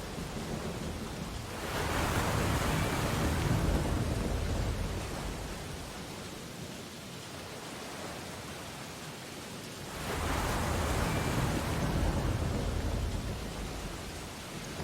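Ocean surf on a beach: two waves break, one about two seconds in and another about ten seconds in, each swelling to a loud rush and then fading back into a steady hiss.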